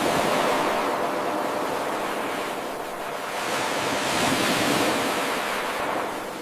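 Ocean waves washing onto a shore: a steady rushing surf noise that swells again about four to five seconds in and eases off near the end.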